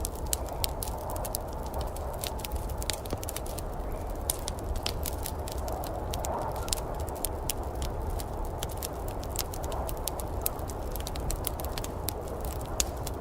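Wood fire crackling in a fireplace, with frequent sharp, irregular pops over a steady low rush.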